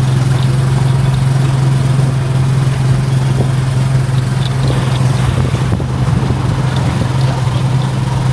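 Motorcycle engine of a tricycle running steadily while riding, with a constant low drone.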